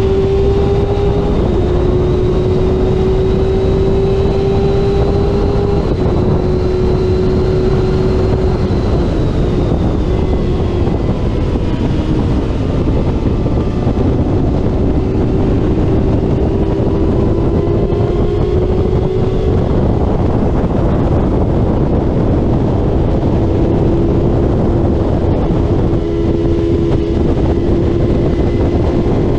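Racing motorcycle engine running hard at high revs, heard from onboard over heavy wind rush. Its pitch climbs slowly and drops back a little several times, as the bike accelerates and the rider changes gear or eases the throttle.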